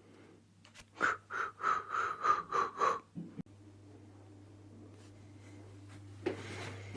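A person's voice making a quick run of about seven breathy pulses over two seconds, followed by a steady low hum.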